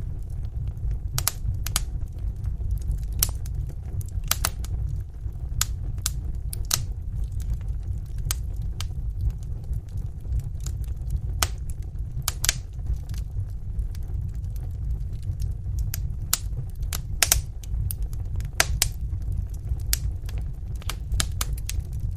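Wood fire in a fireplace crackling: irregular sharp snaps and pops over a steady low rumble of the burning fire.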